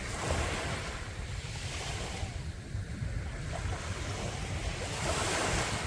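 Sea waves breaking and washing up a beach, the surf swelling just after the start and again near the end, with wind rumbling on the microphone.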